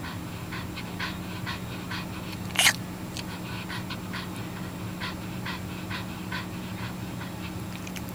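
Dog panting in quick, short breaths, about three a second, during an episode of laboured breathing. One breath about two and a half seconds in is louder and sharper than the rest.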